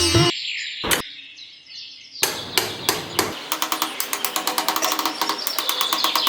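A small hammer tapping on wood in quick, even strokes, about five a second, with birds chirping in the background.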